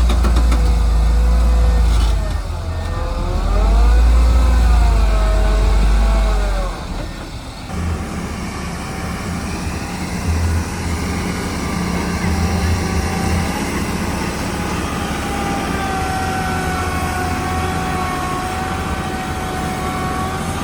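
Heavy diesel earthmoving machinery running: a loud low rumble with a whine that rises and falls in pitch, settling about seven seconds in to quieter, steadier running with a level whine.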